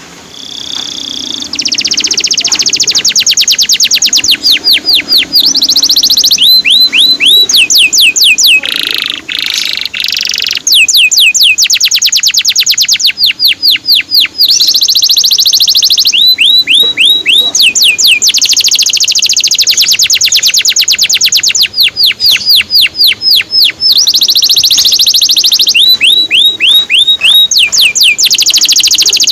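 Male domestic canary singing a long, loud song of quick chains of falling whistled notes and trills, fading up over the first two seconds.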